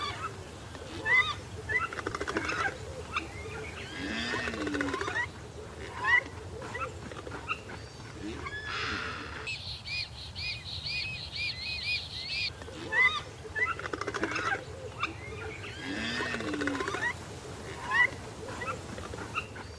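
A chorus of bird calls: many short chirps and whistles, with a rapid run of high repeated notes, about four a second, in the middle.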